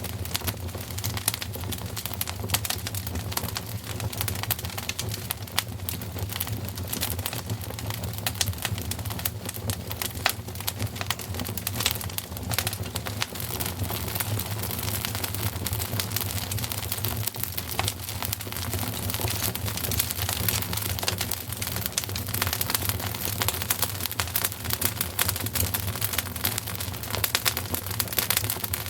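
Wood fire crackling steadily in a fireplace, a dense run of small pops and snaps over a steady low rumble.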